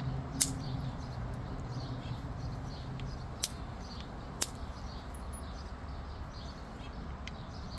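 Obsidian flake being knapped: sharp, short clicks as the tool bites the edge and flakes come off, three clear ones (about half a second in, then about three and a half and four and a half seconds in) and a few fainter ticks.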